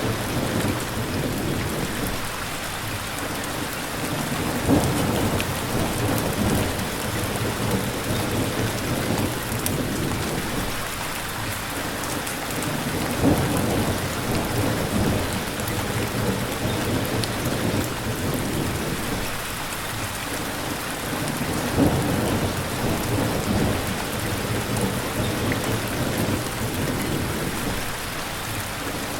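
Steady heavy rain pouring, with low thunder rumbling under it. There are three brief louder bursts about 5, 13 and 22 seconds in.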